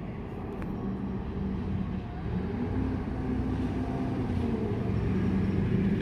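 South Western Railway electric multiple-unit train running through the station, its motors giving steady low tones over a rumble that grows louder toward the end.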